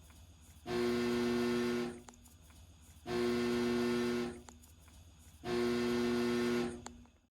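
Heating furnace giving a steady electrical buzz in three bursts of a little over a second each, about two and a half seconds apart. The landlord puts the buzz down to a bad motor in the unit.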